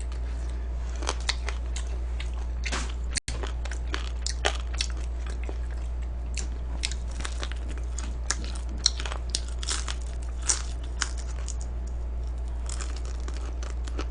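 Close-miked chewing of crispy fried chicken: irregular crunchy, crackly bites, over a steady low hum.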